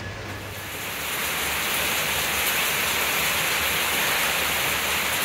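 Rain falling, a steady even hiss that builds up over the first second and cuts off suddenly at the end.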